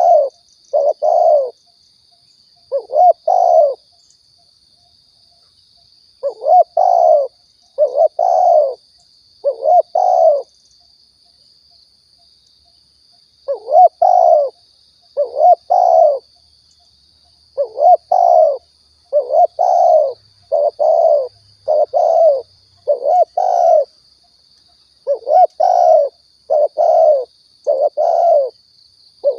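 Spotted dove (tekukur) cooing: repeated phrases of two to four low, bending coo notes, with pauses of a second or more between phrases. A faint steady high whine runs underneath.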